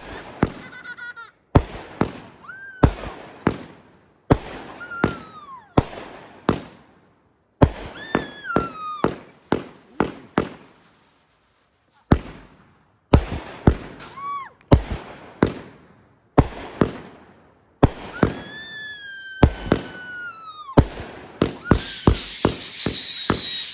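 Backyard consumer fireworks going off: many sharp bangs and crackles mixed with whistles that rise and then fall in pitch. Near the end a long high whistle runs over continuous crackling.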